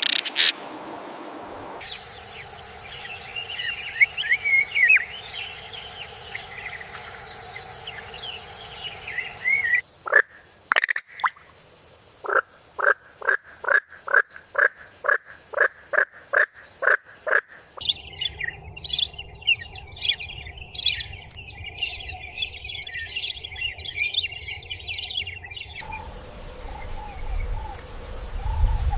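Nature ambience in changing scenes. For several seconds it is a steady insect drone with scattered bird chirps. Then a frog calls in a regular series of short croaks, about two a second, for some eight seconds. After that comes a high insect drone again with busy chirping.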